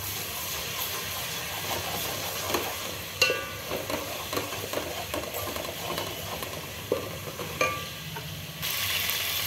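Sliced onions and ginger-garlic paste sizzling in hot oil in an aluminium pot, stirred with a wooden spatula that scrapes and knocks against the pot's bottom. The sizzle grows louder near the end.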